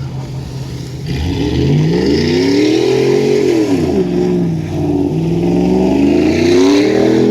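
2004 Chevrolet Silverado's 4.8-litre V8 with straight pipes, idling and then revving: the exhaust note rises and falls back once, then climbs again near the end.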